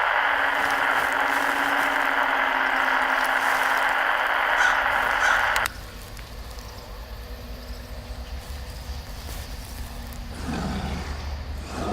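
Layered monster sound effects: a loud steady hiss cuts off suddenly about six seconds in, leaving a low rumble, and a creature's roaring growl rises near the end.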